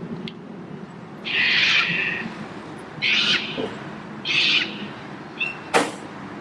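A bird screeching: three harsh, raspy calls, each under a second long and about a second and a half apart, with a sharp click near the end.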